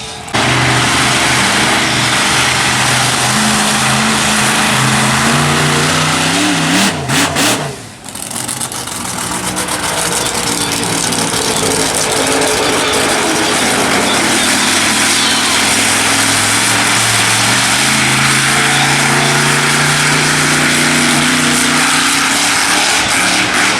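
Monster truck engine running loud, its pitch climbing and warbling a few seconds in. It drops out briefly at about eight seconds, then climbs again in the latter part.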